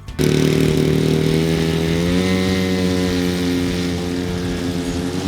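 Giant-scale RC model airplane's piston engine and propeller running steadily, starting abruptly; its pitch rises a little about two seconds in and then holds.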